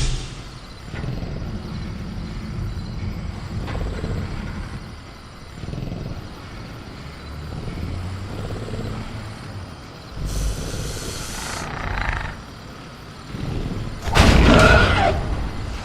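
Dinosaur sound-effect ambience of a caged velociraptor: low rumbling throughout. About ten seconds in comes a hissing burst of a second or so that starts and stops sharply, and near the end a loud burst.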